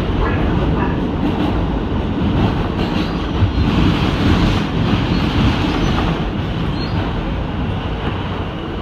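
A New York City subway car running at speed, heard from inside: a steady, loud rumble of wheels on rail, with a faint high wheel squeal now and then.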